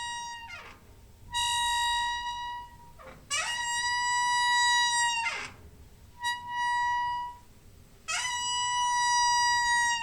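Door hinge squeaking in four long, drawn-out squeaks. Each holds one steady high pitch and slides down as it fades.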